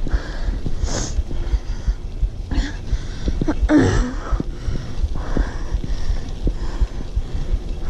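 A tired cyclist breathing hard, with heavy breaths about every second or so and a short voiced exhale about four seconds in, over steady low rumble and knocks from the ride.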